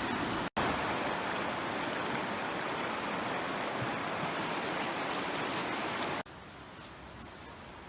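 Creek water rushing steadily, broken by a brief dropout about half a second in and dropping abruptly to a fainter rush about six seconds in.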